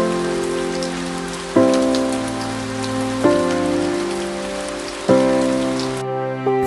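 Steady rain with soft background music of sustained chords, a new chord struck about every one and a half to two seconds. The rain cuts off suddenly near the end while the music goes on.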